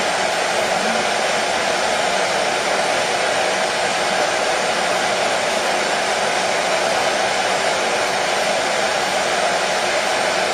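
Hair dryer running steadily: an even, unchanging blowing hiss with a faint motor hum, used as white noise to lull a baby to sleep.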